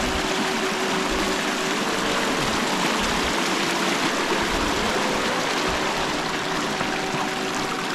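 Rushing stream water, a steady, unbroken flow.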